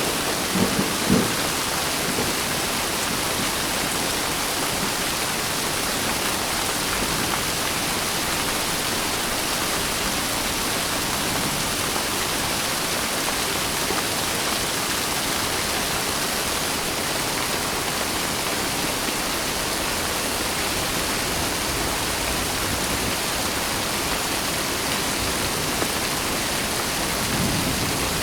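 Steady rain, an even hiss with no pauses. Low thunder rumbles in the first second or so and again near the end.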